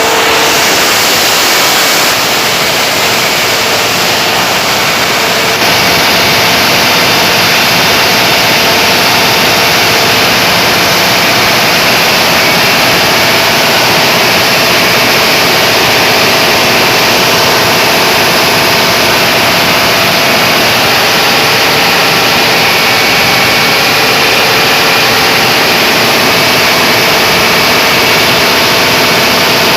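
Large standby generator engine running steadily and loudly during a load test, a dense mechanical drone with a slight rise in level about five seconds in.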